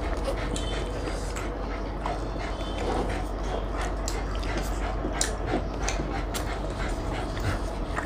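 Close-up eating sounds of people chewing roti and chilli chicken: irregular wet smacks and mouth clicks, over a steady low hum.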